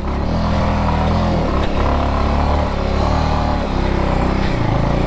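Motorcycle engine running under throttle on a rough climb, its revs dropping and rising a few times.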